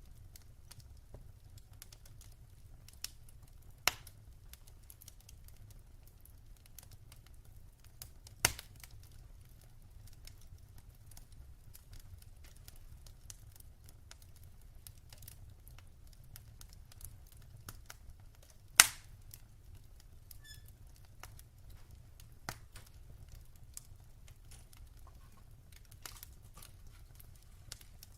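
Wood fire crackling: sparse small ticks and snaps over a low steady rumble, with three louder sharp pops.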